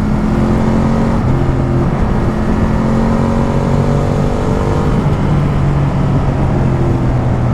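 Ducati Multistrada 1200's V-twin engine running at road speed under heavy wind rush, its pitch shifting slightly a couple of times.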